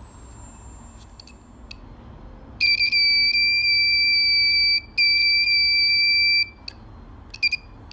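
Rain warning alarm's buzzer giving two long, steady, high-pitched beeps of about two seconds each with a brief break between, followed by a couple of short chirps near the end.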